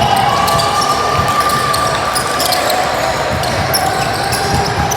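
Basketball game sounds: a ball bouncing on a gym floor over the steady chatter of players and spectators.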